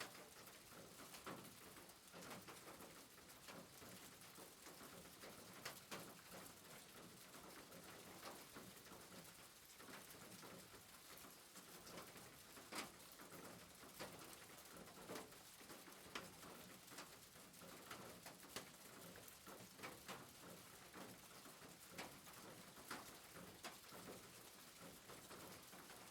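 Faint soft rain: an even hiss with scattered light, irregular taps.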